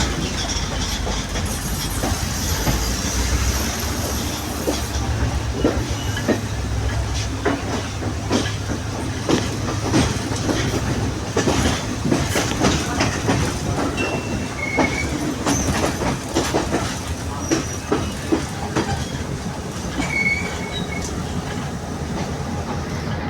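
Sri Lanka Railways Class S11 diesel multiple unit on the move: a steady low engine hum under a continual irregular clatter of wheels over the rails, with a couple of brief wheel squeals in the second half.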